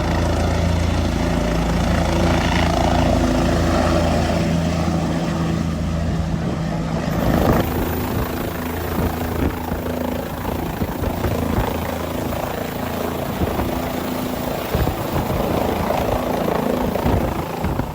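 Helicopter running: a steady low engine and rotor drone that turns noisier and choppier about seven seconds in.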